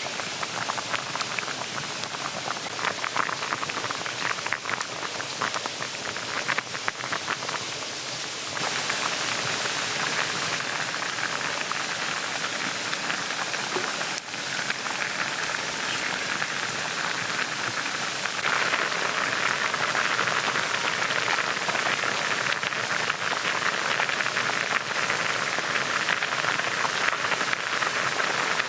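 Mountain stream babbling steadily. There are small clicks and ticks over the first several seconds, and the rushing water changes abruptly about eight and eighteen seconds in, growing louder each time.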